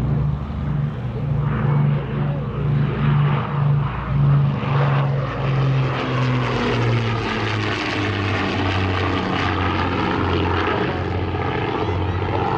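De Havilland Mosquito's twin Packard Merlin 29 V12 engines on a fast pass, the two engines beating against each other in a throbbing pulse. About halfway through, the engine note drops in pitch as the aircraft goes by.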